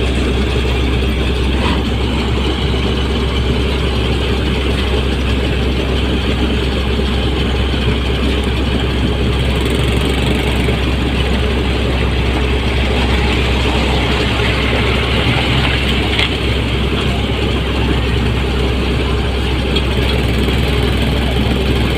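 Rice combine harvester's engine and threshing machinery running steadily, with a constant low drone.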